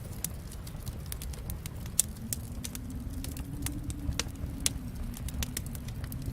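Fireplace wood fire crackling: irregular sharp pops and snaps over a low steady rumble of flame, the loudest pop about two seconds in.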